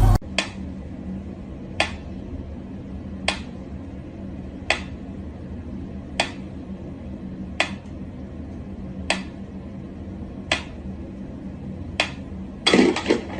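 Sharp light clicks or taps repeating evenly about every second and a half, with a quicker cluster near the end, over a steady low hum.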